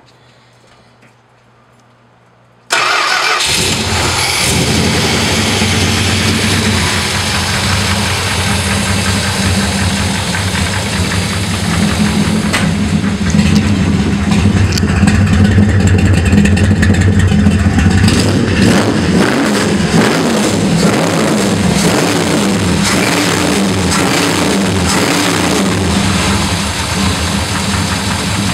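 Dodge 440 big-block V8 with Hooker headers and an Edelbrock four-barrel carburettor starting suddenly about three seconds in, then running, a little louder in the middle and rougher towards the end.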